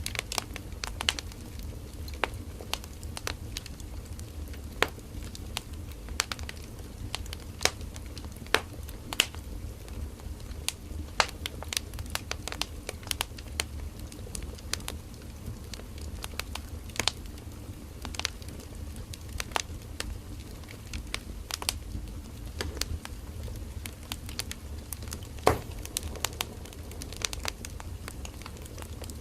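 Firewood burning in a campfire: irregular sharp crackles and pops over a low steady rumble of the flames, one louder pop near the end.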